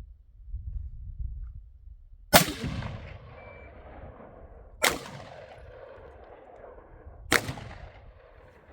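Three single gunshots, evenly spaced about two and a half seconds apart, each followed by a long rolling echo that fades over a second or more.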